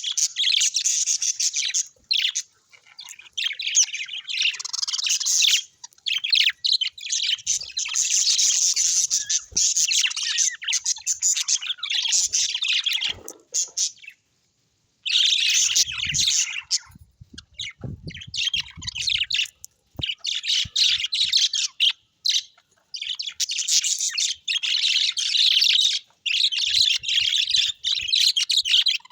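Birds chirping and twittering rapidly and continuously in long bursts, broken by short silences, with a complete pause a little before halfway through.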